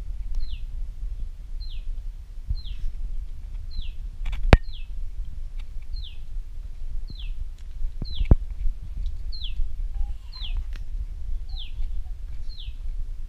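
A bird repeating one short call that falls in pitch, about once a second, over a steady low rumble. Two sharp clicks, about four and eight seconds in; the first is the loudest sound.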